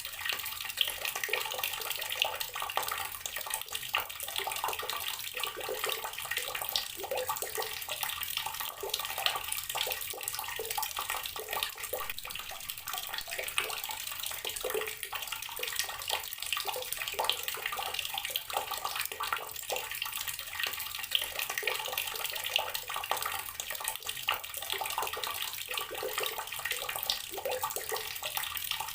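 Outdoor garden water tap running steadily, its stream splashing and spattering with constant small irregular splashes.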